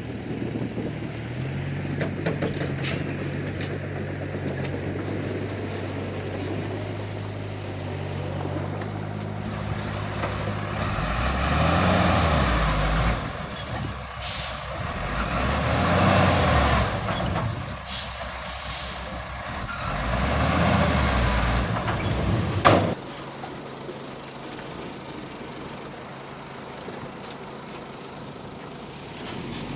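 Heavy diesel construction machine engine running steadily, then revving up and down three times about four seconds apart, each rev with a faint high whine rising and falling. About two-thirds of the way through, a sharp click, and the engine drops to a quiet low idle.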